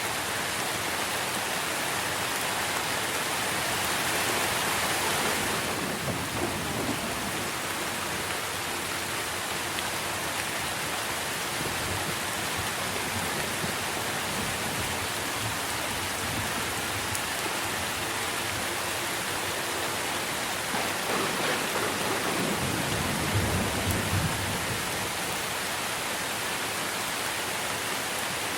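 Steady rain falling on trees, with low rumbles of thunder twice: a short one near the start and a longer, louder one about three quarters of the way through.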